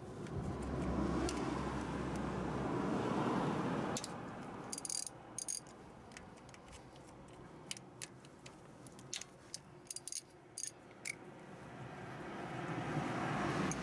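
Scattered light metallic clicks and clinks of hand tools or parts being handled, between two stretches of rushing noise that swell up at the start and again near the end.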